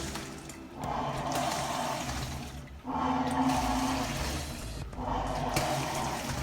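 Hitachi BeatWash top-loading washing machine agitating a load: water churning in strokes of about two seconds, each with a low motor hum, breaking off briefly as the pulsator reverses. The machine has been reported as making an abnormal noise.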